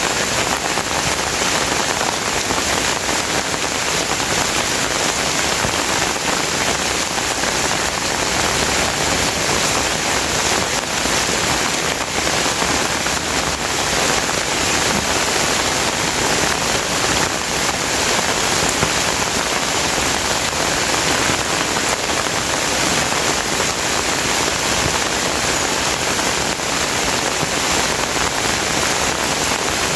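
Steady rain falling, a dense even patter of raindrops on surfaces.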